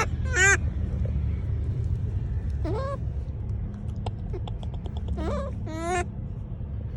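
A monkey calling four times in short, high, rising squeals, over a steady low rumble.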